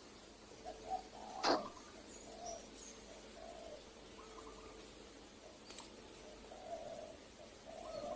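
Spotted doves (tekukur) cooing in repeated short phrases. A single sharp click about a second and a half in.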